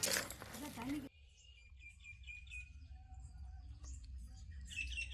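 Small birds chirping faintly in short high notes over a low steady hum. A voice in the first second cuts off abruptly.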